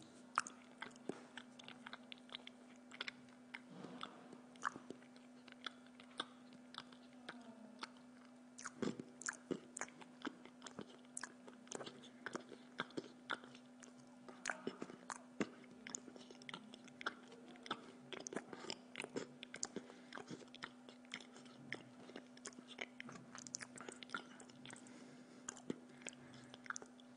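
A person chewing and biting pizza close to the microphone, with many short crunches and clicks scattered irregularly throughout. A steady low hum runs underneath.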